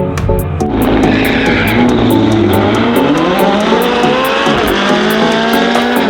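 A car launching and accelerating hard, its engine pitch climbing steadily, over background music with a steady beat.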